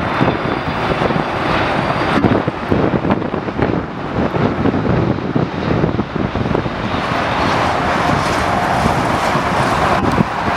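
Aircraft engines running as a steady noise, with heavy wind buffeting on the microphone.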